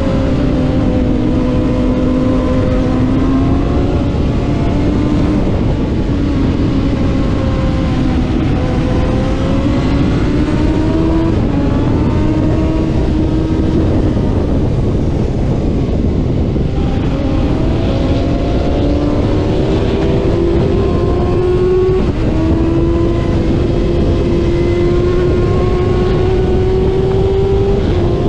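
Middleweight racing motorcycle engine at full race pace, heard from on board over a steady rush of wind: the revs climb, drop sharply and climb again several times as it runs up through the gears and slows for corners. Near the end it pulls one long, steady climb in revs.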